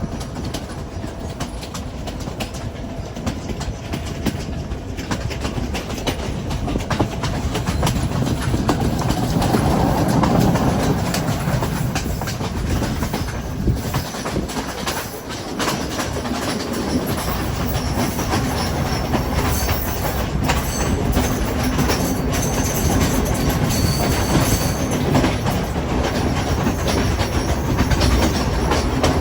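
Train running along the track, wheels clicking over the rail joints, with a faint high wheel squeal in the second half.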